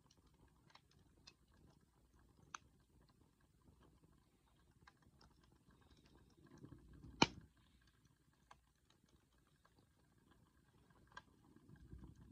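Wood bonfire crackling faintly with scattered small pops, and one sharp, much louder pop about seven seconds in.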